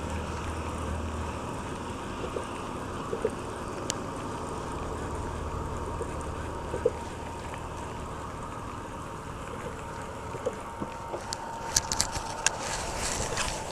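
Steady hiss and low hum in a fishing boat, with scattered sharp clicks and a small cluster of them near the end. The hum is strongest in the first second or so.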